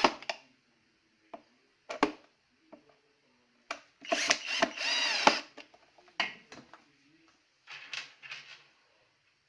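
Electric screwdriver running in several short bursts, with clicks in between, as it drives screws into a vacuum cleaner's plastic housing. The longest burst, about a second and a half, comes near the middle.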